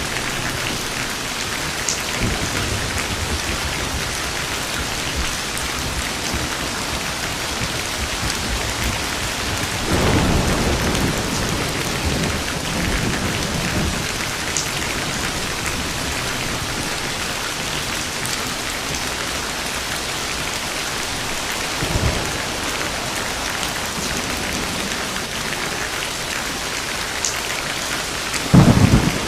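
Steady heavy rain falling, with rolls of thunder rumbling through it about a third of the way in, briefly about three-quarters in, and loudest near the end.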